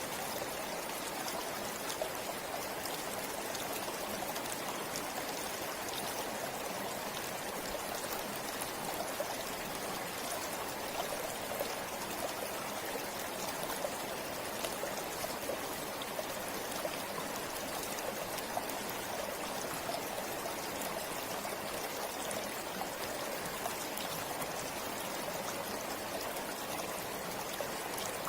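Stream or river water flowing steadily over rocks, a constant rushing with fine splashing and trickling.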